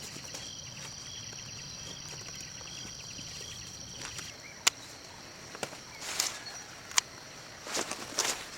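Outdoor ambience with a steady high-pitched insect drone, part of which stops about four seconds in, then two sharp clicks and a few short rustling scrapes near the end.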